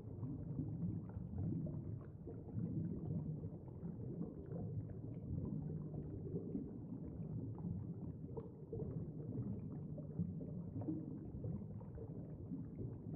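Low, steady rumbling ambience of the kind laid under deep-sea footage, with no distinct events.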